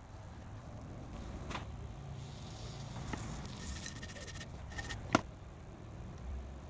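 A few faint clicks and taps over a low steady rumble, with one sharp click about five seconds in.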